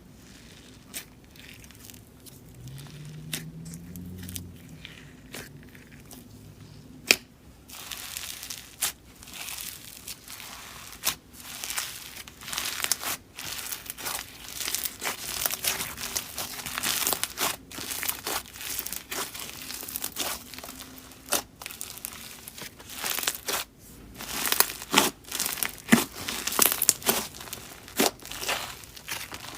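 Slime being squished and stretched by hand, crackling and popping. A few sharp clicks come first, then dense crackling from about a quarter of the way in.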